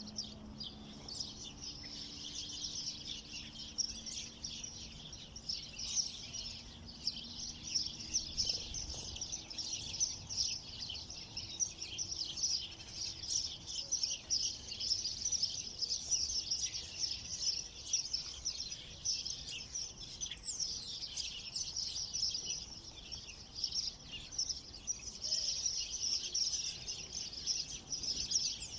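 Many small songbirds chirping and twittering at once in a dense, continuous chorus of short, high notes.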